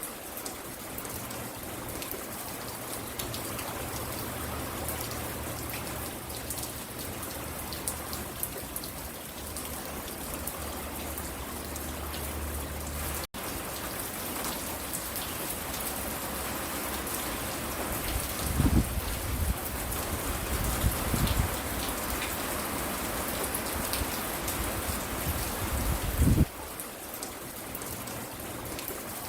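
Steady rain falling, with scattered drop ticks. A few deep, low rumbles come in the second half, the loudest near the end, and the sound cuts out for an instant about 13 seconds in.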